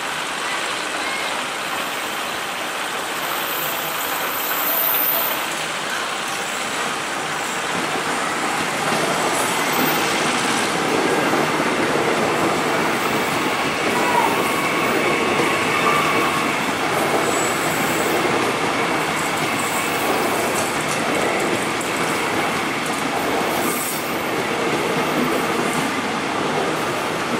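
KAI Railink Bandara airport electric train running past on curved track: a continuous rumble and clatter of its wheels on the rails, growing somewhat louder partway through as the cars pass close by, with faint high squeals now and then.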